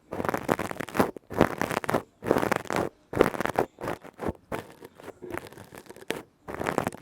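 Close-miked ASMR tapping and scratching on objects, coming in short crackly bursts with brief pauses between them.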